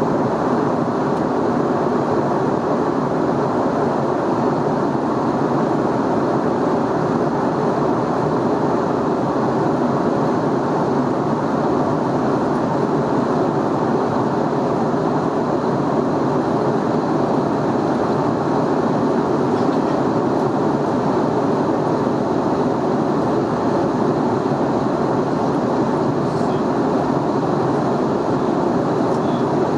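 Steady in-flight cabin noise inside an Airbus A320neo: airflow and its Pratt & Whitney PW1127G geared turbofans, heard as an even, unchanging noise.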